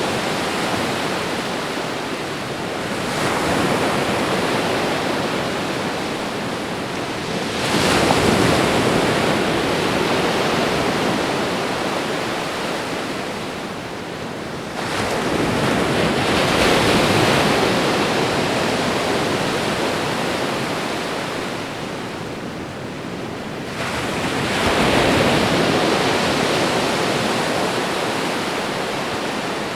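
Ocean waves breaking and washing onto a shore, a steady rush of surf that swells every seven to nine seconds, four times.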